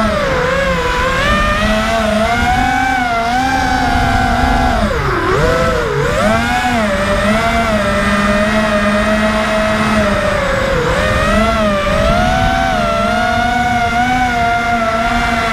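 Racing quadcopter's brushless motors and propellers whining in flight, the pitch rising and falling with the throttle, with sharp dips about five seconds in and again near eleven seconds.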